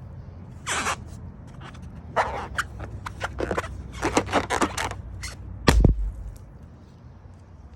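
Rubber balloons rubbed and handled in a run of short scraping squeaks, then one balloon bursting in a single sharp pop about six seconds in.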